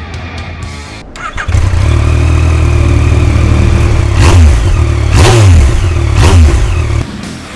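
Yamaha Tracer 900GT's inline three-cylinder engine starting about a second and a half in and running, revved up and back down three times, then cutting off near the end.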